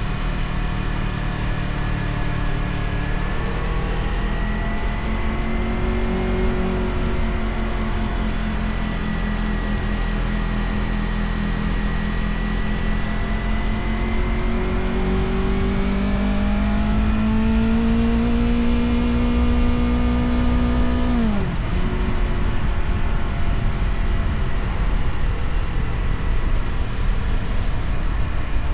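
Motorcycle engine running under way, its pitch climbing slowly as it pulls for most of the time, then falling sharply about twenty seconds in and running on steadily.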